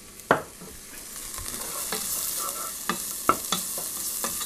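Vegetables stir-frying in oil in a pot, sizzling, while a wooden spatula knocks and scrapes against the pot as they are stirred. The sizzle grows louder about a second in.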